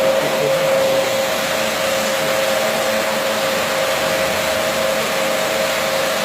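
Carpet washing machine running steadily, a constant motor whine over a loud even hiss.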